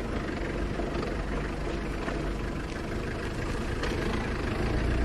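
Safari vehicle's engine running steadily, heard from on board.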